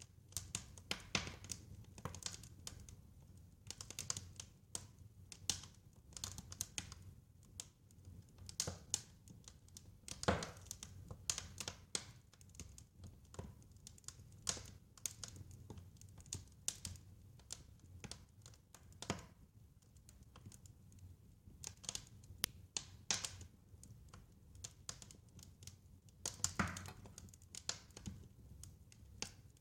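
Wood fire crackling: a dense run of irregular snaps and pops over a low rumble, with a couple of louder pops, one about ten seconds in and one near the end.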